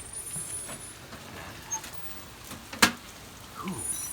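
Steady hiss of heavy thunderstorm rain, with one sharp click about three seconds in.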